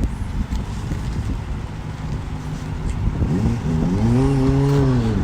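Motorbike engine accelerating as it rides past. About three seconds in the engine note climbs and grows loud, holds, then drops in pitch near the end as the bike goes by, over a low rumble.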